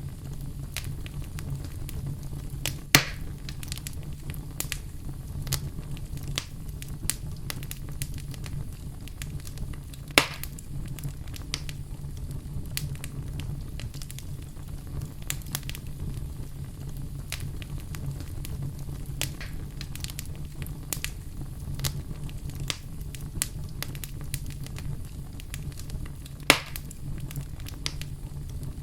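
Fireplace fire crackling continuously, with scattered small pops over a steady low rumble. Three sharper, louder pops stand out: near the start, about a third of the way in, and near the end.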